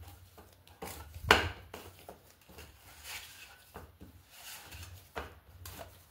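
Kitchen utensils being handled: irregular knocks and clicks, with one loud knock about a second in.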